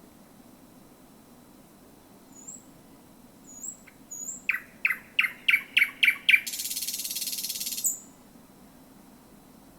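Thrush nightingale singing one song phrase: a few thin high notes, then about seven loud, rapid repeated notes that grow stronger, ending in a dry, harsh rattle about a second and a half long that closes with a single high note.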